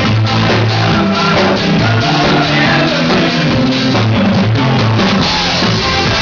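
A band playing loud rock music, with a drum kit, guitars, bass and a singer.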